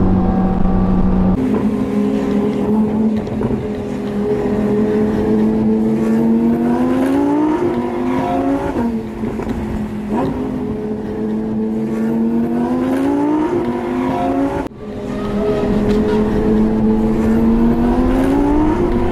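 Sports car engine accelerating hard through the gears. Its pitch climbs and drops back at each upshift, several times over, with a brief break about three-quarters of the way through.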